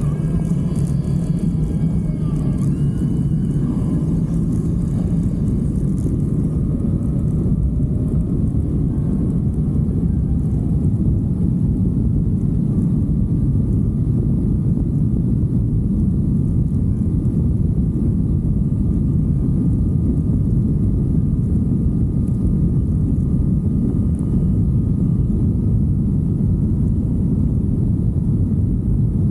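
Steady wind buffeting and motorcycle engine rumble recorded while riding, a dense low roar that holds an even level throughout.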